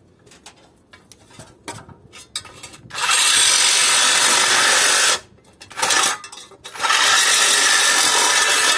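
A power tool run in two bursts of about two seconds each, with light knocks and clinks of metal parts before and between them.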